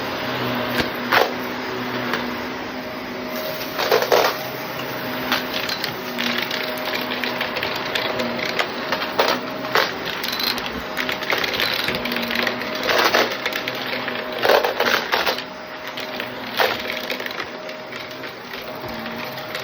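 Shark vacuum cleaner running steadily, with many sharp clicks and rattles as small debris is sucked up.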